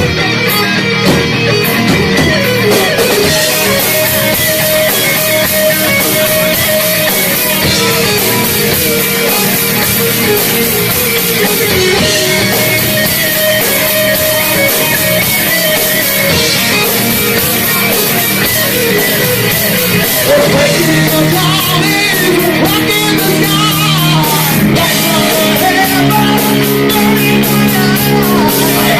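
Heavy metal band playing live, loud with electric guitars; about twenty seconds in the music shifts to long held chords.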